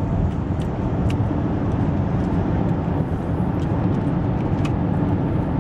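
Steady road and engine rumble inside a moving car's cabin, with a few light ticks over it.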